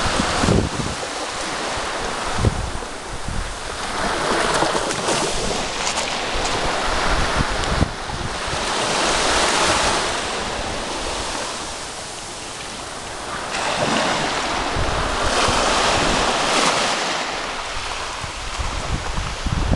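Sea waves breaking and washing on the shore, the surf swelling and ebbing three or four times, with wind buffeting the microphone at the start and near the end.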